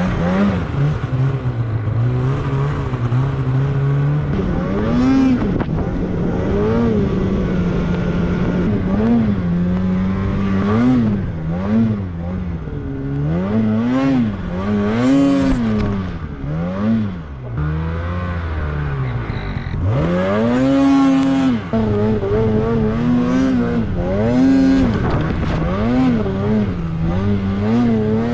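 Snowmobile engine under a rider's throttle, its pitch rising and falling again and again every second or two as it is revved and let off.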